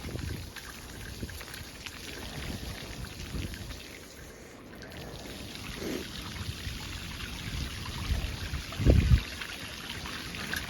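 Shallow surface flood water splashing and trickling, with low wind rumbles on the microphone, the strongest near the end.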